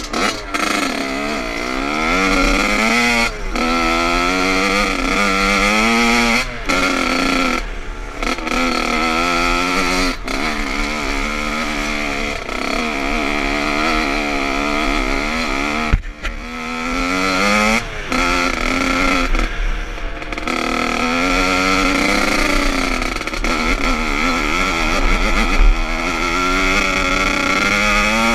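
Motocross bike engine being ridden hard, revving up and dropping back again and again, with a few brief breaks in the sound.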